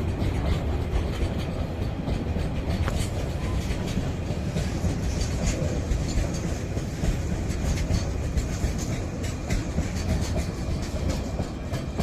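Freight train wagons rolling past close by: a steady low rumble with rapid clickety-clack of wheels over rail joints.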